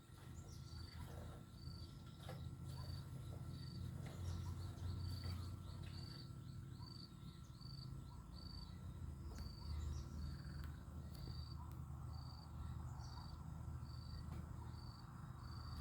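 A cricket chirping steadily, short high chirps a little more than once a second, faint over a low rumble.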